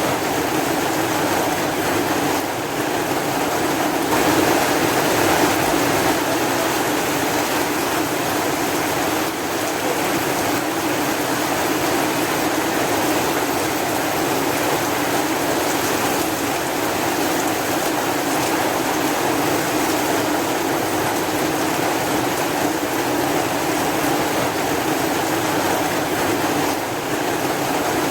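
Steady rain, a dense even hiss that stays level throughout.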